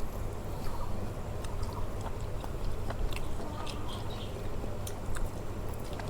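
A person chewing a mouthful of chicken biryani close to the microphone, with scattered small mouth clicks and smacks.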